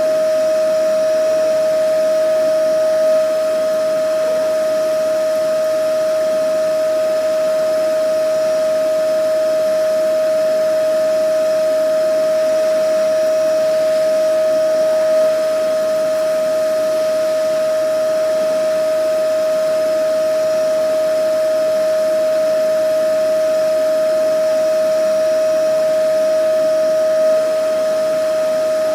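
Vacuum cleaner motor running steadily: a constant high whine over a rushing of air, with a slight bump in level about every twelve seconds.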